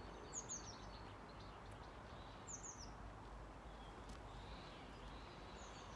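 A songbird repeating a short phrase of three or four quick, high, falling chirps, heard three times, over faint steady outdoor background noise.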